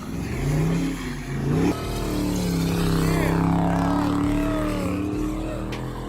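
Dodge Charger's engine revving in a few rising sweeps, then running at a steady pitch from about two seconds in.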